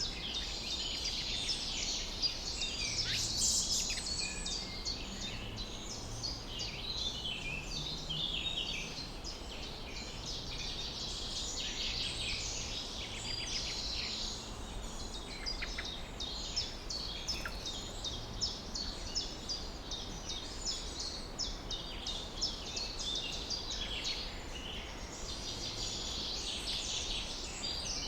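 Several birds chirping and trilling at once in a continuous dawn chorus over a steady low background noise.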